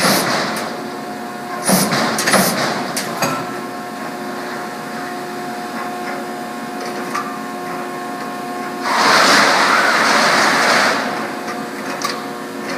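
Whitney 40-ton CNC punch/plasma machine running with a steady whine, a few sharp knocks around two seconds in, and a loud hiss for about two seconds near nine seconds in.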